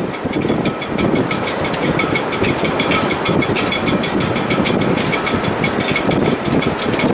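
Strong wind blowing through a sailboat's shrouds in heavy weather: a steady noisy rush, with a fast run of faint ticks above it.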